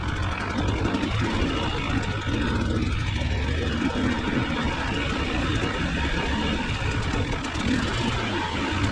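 Dirt bike engine running steadily while being ridden.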